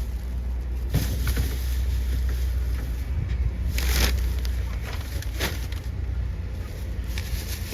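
Grocery bags and items being set down in a car, with a few knocks and rustles, over a steady low rumble.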